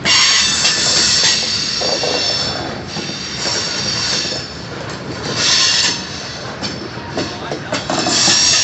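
Freight cars of a manifest train rolling past, their steel wheels squealing against the rail in several high-pitched spells over a steady rumble, with occasional clicks from the wheels crossing rail joints.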